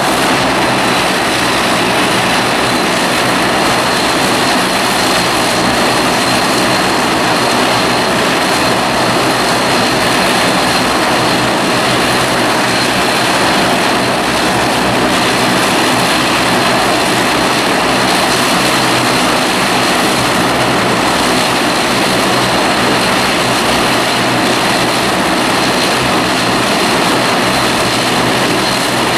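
Jet aircraft engines running steadily: a loud, even rush of noise with a thin high whine that dips slightly just after the start and then holds steady.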